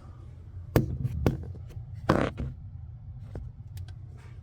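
A few sharp clicks and knocks, with a short clatter in the middle, as plumbing fittings and filter parts are handled under a sink, over a low steady hum.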